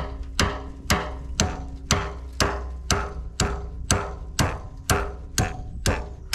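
Steady hammering on metal: about two sharp blows a second, each followed by a brief ringing.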